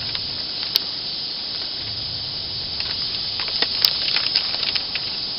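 Steady hiss with two sharp clicks, about a second in and just past the middle, and a scatter of light ticks around the second click: small nail-gun parts and a rebuild kit being handled on the bench.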